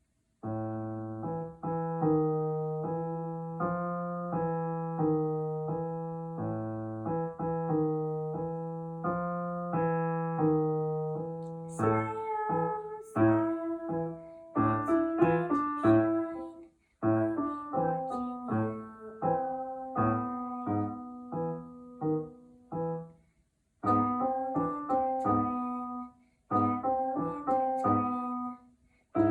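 A beginner piano piece played solo: held low bass notes under a repeating melody at first, then from about twelve seconds in shorter, detached chords with brief pauses between phrases.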